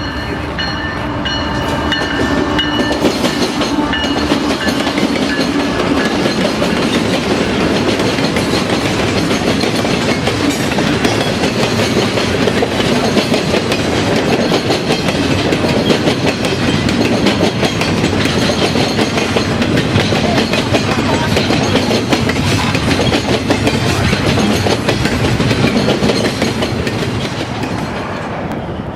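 Canadian Pacific freight train rolling past: steady loud wheel-on-rail noise and rattle of the cars, with a few steady engine tones in the first few seconds.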